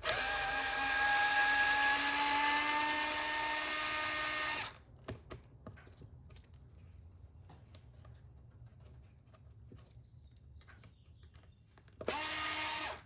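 Small Dremel cordless electric screwdriver running, with a 2.5 mm hex bit driving out screws from an RC car chassis. There is one whine of about four and a half seconds whose pitch rises slightly, then light clicks of handling, then a second short burst of about a second near the end.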